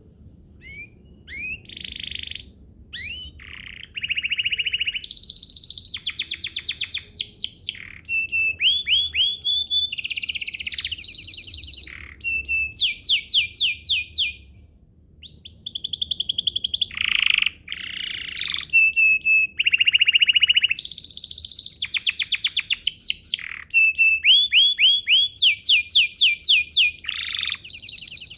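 Domestic canary singing a long song made of rapid trills and quickly repeated chirping notes, changing from one phrase to the next with only brief pauses.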